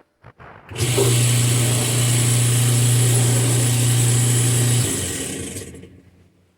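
Whirlpool direct-drive washing machine motor running with a loud steady hum and a harsh noise over it. The hum cuts off near the end and the noise dies away as it winds down. This is a washer that only makes noise and won't wash or spin, the sign of a failed motor coupler.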